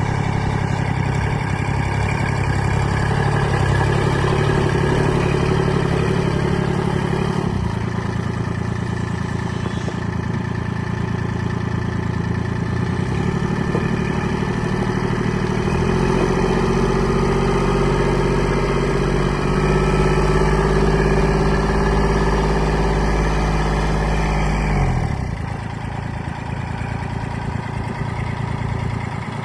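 Kubota L2501 tractor's three-cylinder diesel engine running steadily. Its speed shifts a couple of times, and about 25 seconds in it drops to a lower, quieter idle.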